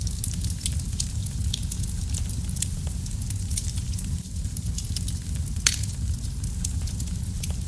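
Fireplace fire crackling: a steady low rumble of flames under many sharp crackles and pops, with one louder pop about two-thirds of the way through.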